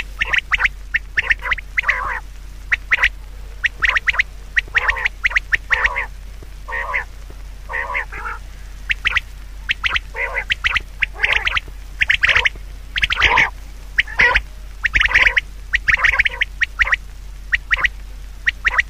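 An animal calling over and over in short, harsh calls, one to three a second with brief gaps, over a steady low hum.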